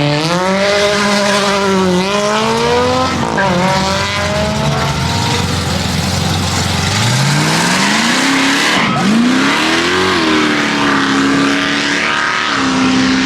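High-performance cars launching and accelerating hard. The engine note climbs and then drops at each gear change, several times, and a new climb from low revs starts about halfway through.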